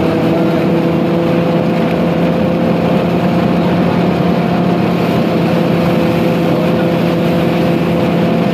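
A tractor engine running steadily under load, driving a paddy thresher, with the thresher's drum humming and rattling along. The pitch and level hold even throughout.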